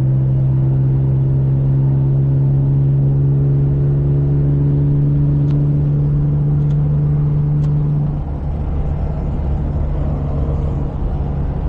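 Car engine under hard acceleration, heard from inside the cabin while overtaking a tractor-trailer, a steady drone that climbs slightly in pitch. About eight seconds in the engine note drops away into a rougher road rumble.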